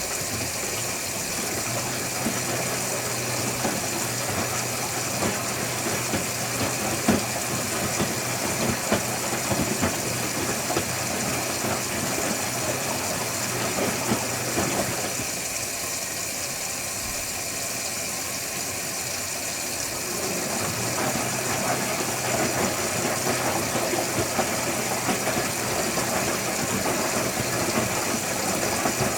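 Electrolux Wascator W355H commercial washing machine running, its drum motor humming steadily with irregular small knocks from the turning drum. The motor hum stops for several seconds about halfway, then starts again.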